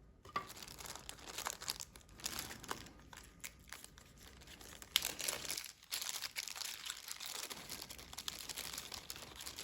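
Plastic packaging of a phone battery replacement kit crinkling and rustling in irregular bursts as it is handled and opened, with small sharp ticks among it.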